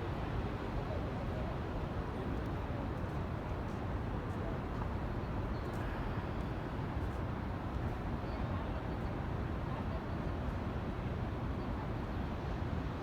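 Steady, low rumbling background noise with no distinct events, of the kind left by traffic or a running vehicle.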